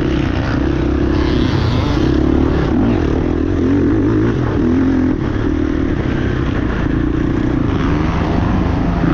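Motocross dirt bike engines running hard, their pitch rising and falling again and again as they rev through the gears.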